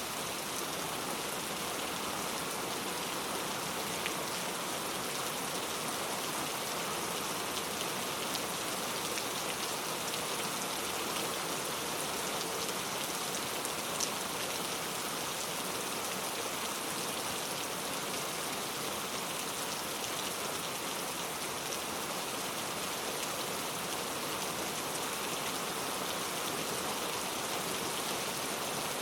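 Heavy rain falling steadily on a leaf-covered road, a dense even patter of drops with no let-up.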